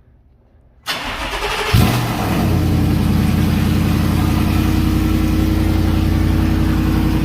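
2018 Ford F-150's 5.0 Coyote V8 started for the first time after fitting catless headers, running straight-piped with no muffler. The starter cranks about a second in, the engine catches with a brief flare of revs, then settles into a loud, steady idle.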